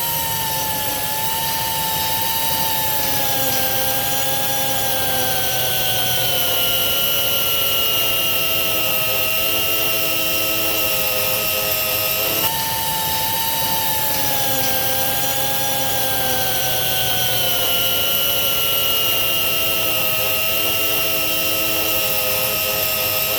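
3-inch pneumatic angle grinder with a milling disc running on metal, a steady high whine. Its pitch falls slowly over about twelve seconds, jumps back up about halfway through, and falls again.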